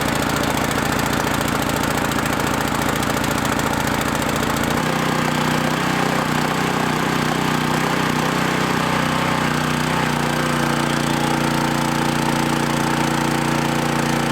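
Small engine of a portable water pump running steadily just after starting, its note shifting about five seconds in and again around ten seconds as it settles in to pump lake water.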